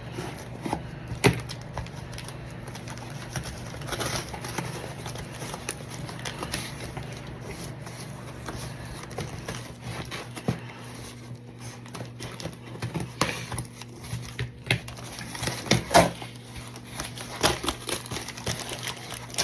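Packaging crinkling and rustling with scattered clicks and taps as a bundle of trading cards is unwrapped and handled, over a low steady hum.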